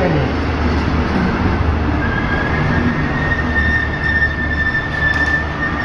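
Double-deck passenger train rumbling as it pulls into a station, with a high, steady squeal of wheels or brakes that comes in about two seconds in and holds.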